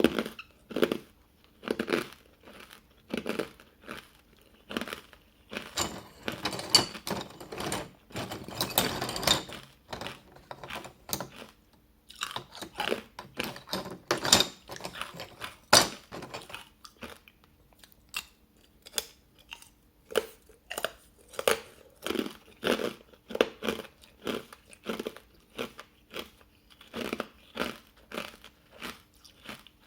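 Hard ice dusted with matcha powder being bitten and chewed close to the microphone: sharp crunches, roughly one or two a second. Twice, about a fifth and again nearly half of the way in, the crunching thickens into a few seconds of dense crackling as the ice is crushed.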